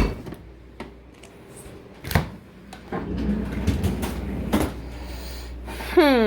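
Kitchen freezer being opened and searched: a few sharp knocks of the door and frozen packages, with rustling and rummaging between them.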